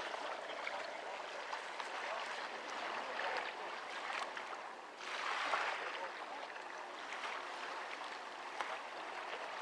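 Indistinct crowd chatter with a steady rushing background noise.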